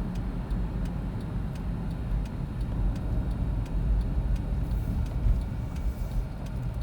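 Car cabin noise: a steady low road-and-engine rumble while driving, with a car's turn-signal indicator ticking evenly throughout.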